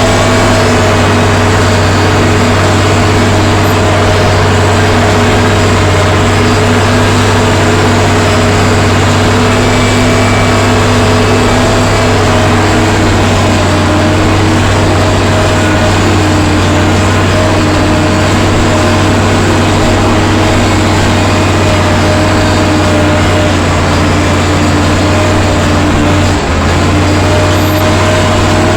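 Allis-Chalmers 940 wheel loader's diesel engine running steadily under a heavy, even drone, with a brief dip in level near the end.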